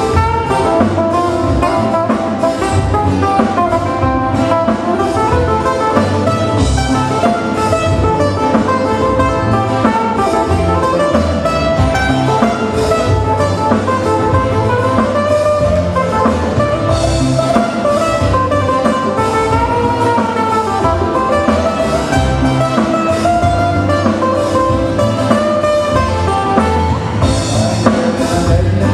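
Live band playing Hawaiian music: guitar over a drum kit keeping a steady beat.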